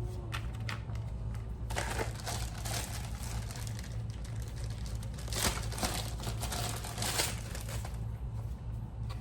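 Plastic packaging crinkling as it is handled, in irregular rustling bursts, over a steady low hum.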